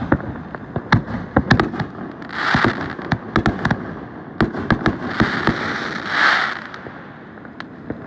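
Fireworks going off: a rapid, irregular string of sharp bangs and pops, with two longer hissing bursts, a short one about two seconds in and a longer one from about five to six and a half seconds.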